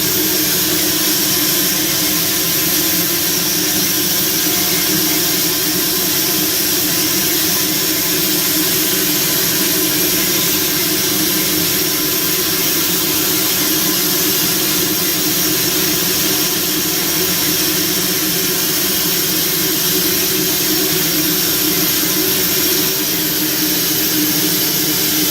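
Steady, loud hiss of steam in the cab of an Alco 2-8-0 steam locomotive, with a faint steady whine under it.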